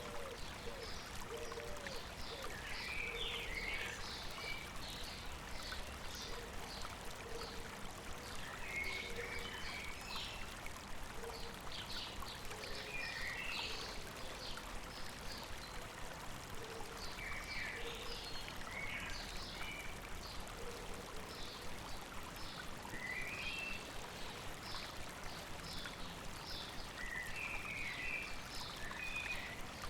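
A river or stream babbling steadily, with birds singing short chirping phrases every four to five seconds over it and a lower, repeated short call underneath.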